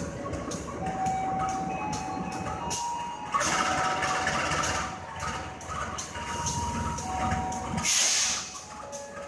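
Passenger train hauled by a diesel locomotive moving slowly past the platform: a steady rumble with faint regular clicks, a thin whine that steps up and down in pitch, and two louder bursts of hiss, about three and a half and eight seconds in.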